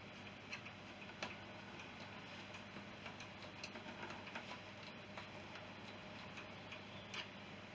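Faint, irregular small clicks and taps of hand tools and small metal parts being handled, over a low steady hum.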